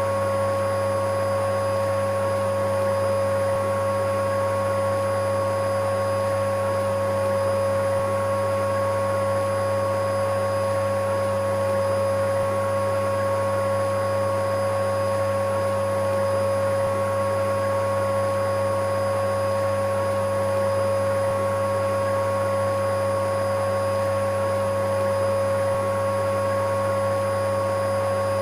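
Electric vacuum cleaner running continuously at a constant speed: a steady hum with a clear, unwavering whine over an even rush of air.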